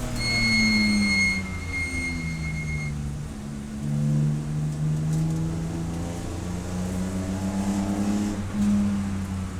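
Race car engine running under load, its pitch falling and rising several times as it slows and accelerates through gear changes. A high, steady whine sounds over it during the first three seconds, broken once about a second and a half in.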